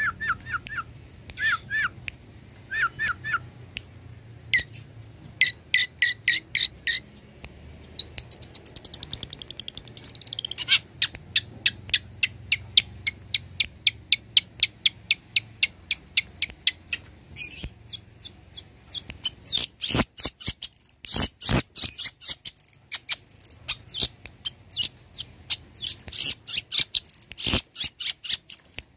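Long-tailed shrike (cendet) singing a varied, chattering song of rapid repeated sharp notes and short trills, quickening into fast dense strings of notes in the second half.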